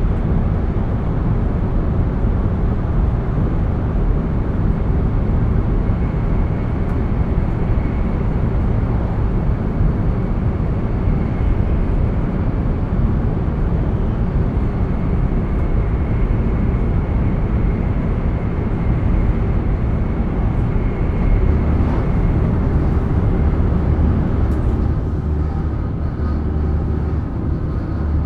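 Running sound inside a JR East E7 series Shinkansen car at speed: a steady, loud rumble and rush with a faint steady high whine above it. Near the end the low rumble grows heavier and the overall sound shifts slightly.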